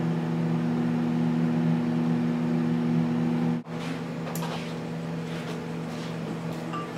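Microwave oven running with a steady electrical hum. The hum drops out for a moment about three and a half seconds in, then carries on a little quieter with a few faint clicks.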